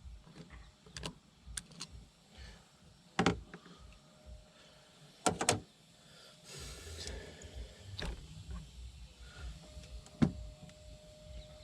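Scattered sharp clicks and clinks of hand tools and engine parts being handled, about seven separate knocks with a short scraping rustle about halfway through.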